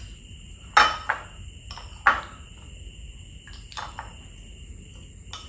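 A person eating fried fishballs: scattered wet clicks and smacks of chewing, the sharpest about a second in and again about two seconds in, over a faint steady high hum.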